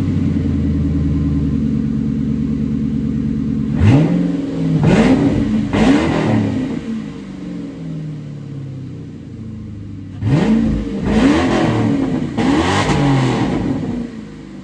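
New Edge Mustang GT's 4.6-litre two-valve V8 running with its exhaust cut off behind the pipes, very loud. It holds a steady fast idle just after starting, is blipped through quick revs in two bursts, and settles back to idle near the end.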